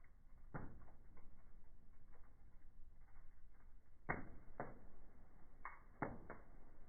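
Wood fire crackling in a fireplace: irregular sharp pops over a low steady rumble, several of them close together in the second half.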